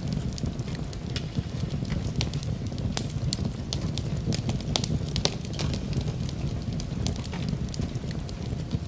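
Wood fire crackling in a fireplace, with many sharp irregular pops and snaps over a steady low rumble.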